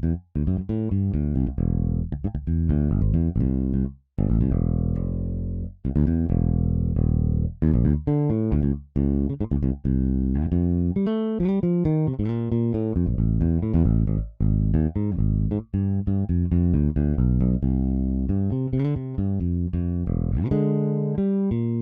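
Solo sampled electric bass in the EZBass plugin playing a funk bass line from a MIDI pattern: short plucked and muted notes with frequent brief rests.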